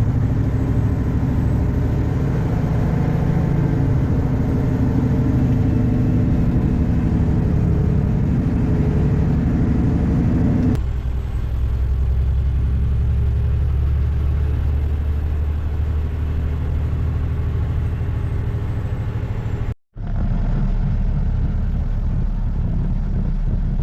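Heavily loaded diesel dump truck's engine pulling under load up a hill, a steady low drone. The sound changes abruptly about eleven seconds in and drops out for a moment near the end.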